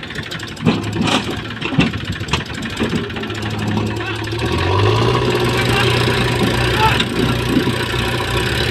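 Tractor engine running, with several sharp knocks in the first few seconds; about halfway through the engine revs up and runs louder and steadier.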